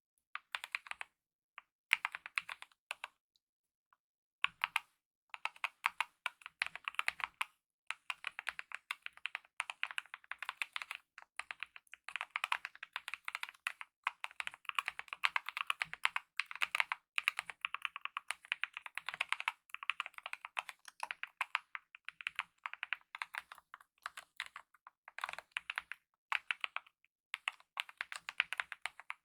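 Continuous typing on a mechanical keyboard with lubed optical red linear switches and DSA-profile keycaps: rapid runs of keystrokes broken by short pauses, about three seconds in and again near the end.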